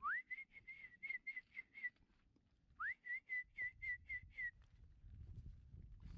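A bird-like whistle, given twice: each phrase starts with a quick rising note and runs into a rapid series of about eight short warbled notes at one pitch, the second phrase beginning about three seconds in.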